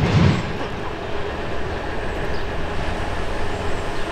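Freight train tank cars rolling past: a steady rumble and rattle of steel wheels on the rails, with a heavier low thumping of wheels just at the start that gives way to an even roll.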